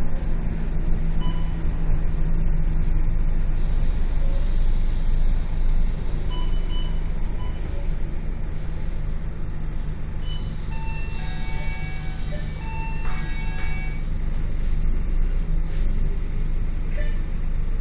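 Scania K230UB bus engine running steadily under way, its low drone holding an even pitch. Roughly two-thirds of the way through, a short cluster of high beeping tones sounds over it.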